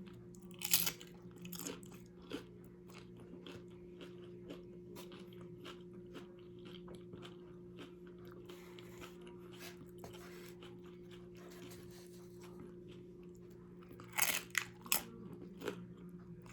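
Close-up chewing and crunching of nachos' tortilla chips, with louder bites about a second in and again near the end and soft chewing clicks between. A faint steady hum sits underneath.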